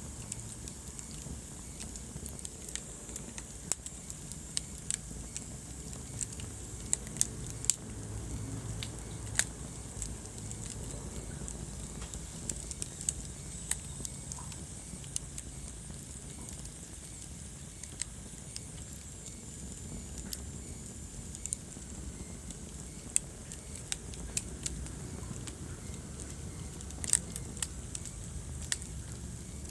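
Wood fire burning in a fireplace: irregular sharp crackles and pops, several of them louder snaps, over a low steady rumble of flame.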